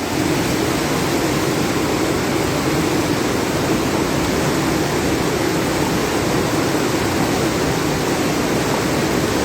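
Steady rush of floodwater pouring over and past a bridge, an even noise with no breaks that starts abruptly.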